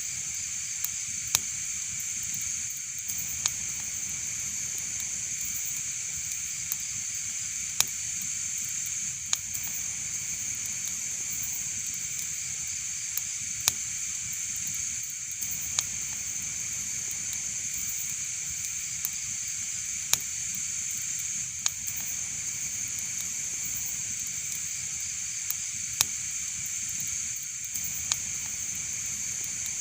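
Wood fire burning with a steady hiss and sharp crackling pops, more than a dozen of them scattered every one to three seconds.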